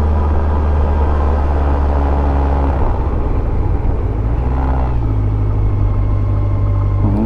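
Yamaha FZS1000 inline-four motorcycle engine running steadily, its pitch shifting slightly about four and a half seconds in.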